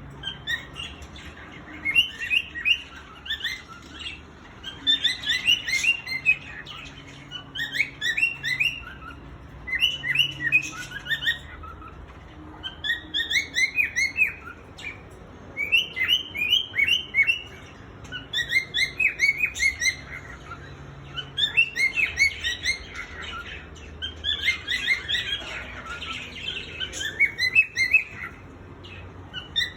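Male cockatiel singing: phrases of quick, rising and falling chirps, repeated every couple of seconds with short pauses between them.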